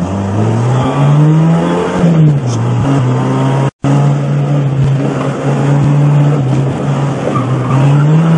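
Renault 8 Gordini's four-cylinder engine pulling hard uphill under load: the revs climb over the first two seconds, fall with an upshift, hold steady, then climb again near the end. The sound cuts out briefly just under four seconds in.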